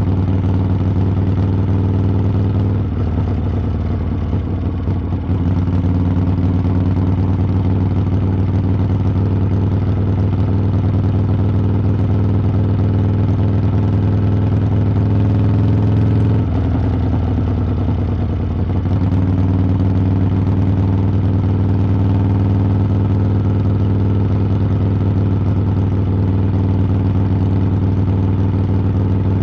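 Harley-Davidson V-twin engine and exhaust running steadily on the road. The engine note dips briefly twice, about three seconds in and again a little past halfway, then comes back up.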